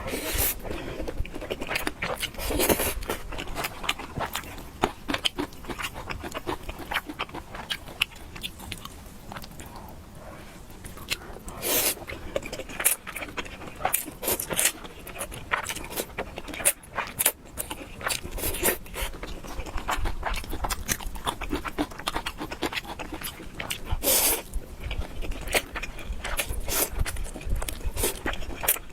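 A person eating spicy noodles: continual chewing and mouth clicks, with three longer, louder noisy bursts spread through.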